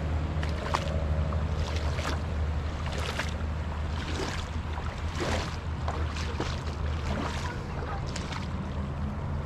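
Water splashing and sloshing in a shallow river, irregular, over a steady low rumble of wind on the microphone.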